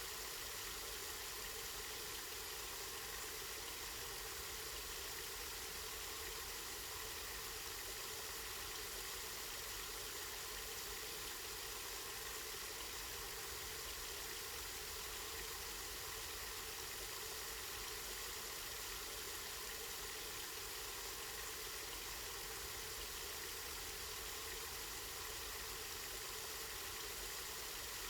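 Water running steadily from a spring, an even splashing hiss with no change.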